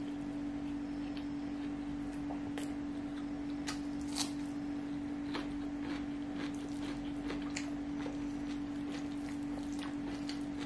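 Mouth sounds of a person chewing fried rice, with fingers picking through rice on a metal tray: scattered small clicks and smacks, one louder click about four seconds in, over a steady low hum.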